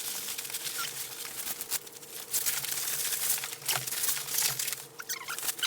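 Foam packing wrap crinkling and rustling in irregular handling noises as it is wrapped around an outboard motor, with a faint steady hum underneath.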